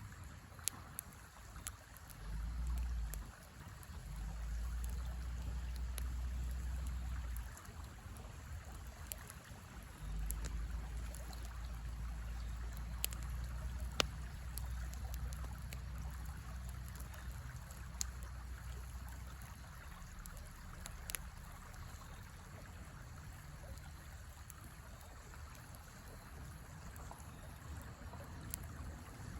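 Campfire crackling, with scattered sharp pops over the steady rush of a river. A low rumble comes and goes through the first two-thirds.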